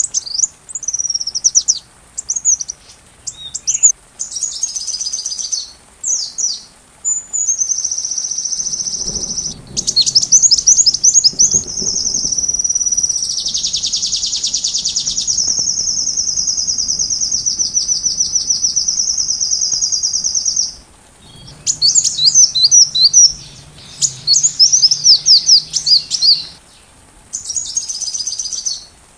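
Sunbird song: high-pitched quick chirps and sweeping notes, then a long, rapid trill lasting about ten seconds, followed by more fast chirping phrases.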